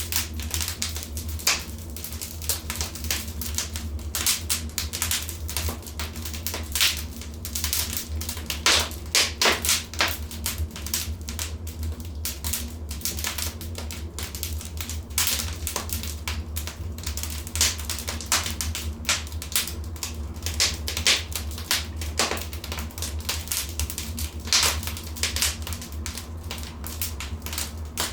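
Wood fire in a fireplace crackling, with irregular sharp pops and snaps, a few louder ones, over a steady low rumble.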